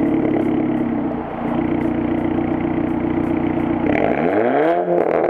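Volkswagen Golf R Mk6's turbocharged four-cylinder running through its new Valvetronic cat-back exhaust, idling steadily. About four seconds in the engine is revved, its pitch rising quickly and then holding higher.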